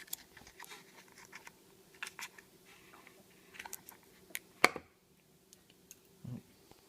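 Scattered light clicks and taps of packaged food items being handled, with one sharp louder knock about two-thirds of the way through and a soft thud near the end.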